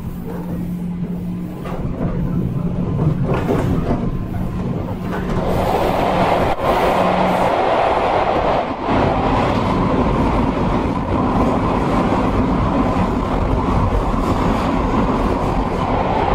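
Running sound inside a 103 series 1500-subseries electric train: a steady rumble of wheels on rail and traction gear with a low hum. The noise grows louder about five seconds in, and the hum drops out a couple of seconds later.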